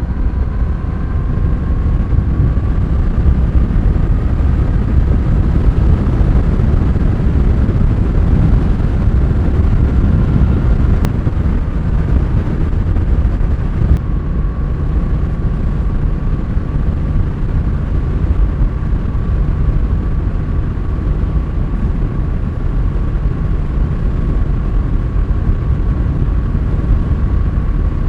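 Honda Rebel 1100's parallel-twin engine pulling at road speed under heavy wind rush. The engine note climbs slowly for about the first half, drops a little at a shift, then holds steady.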